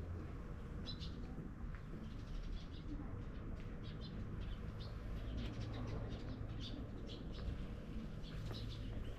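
Small birds chirping in short, scattered calls, more of them in the second half, over a steady low background rumble.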